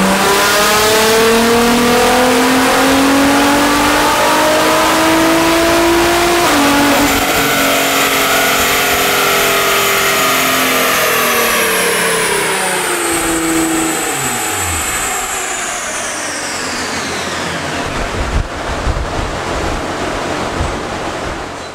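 Nissan GT-R R35's twin-turbo 3.8-litre V6 at full throttle on an all-wheel-drive chassis dyno: the revs climb steadily, drop suddenly in pitch about six seconds in, run on, then engine and rollers wind down with a long falling whine. A few low thuds near the end.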